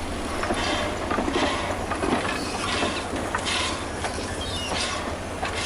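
Railway wagons clanking and rattling, irregular metallic knocks over a steady low rumble.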